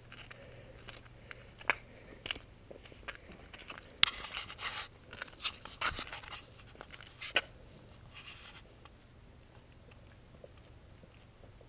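Irregular crunches, clicks and scrapes, busiest about four to seven seconds in, then dying away after about eight and a half seconds to a faint steady background.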